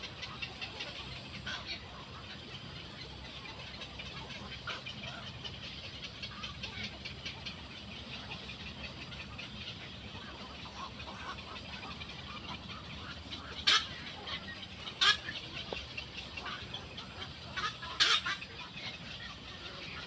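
Birds calling around a nest: a steady, busy chatter of many short high calls, broken by three loud, sharp calls in the second half.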